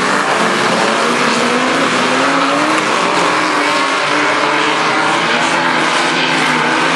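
Banger-racing cars running in a pack, several engines revving together with their pitches rising and falling over one another above a steady rumble.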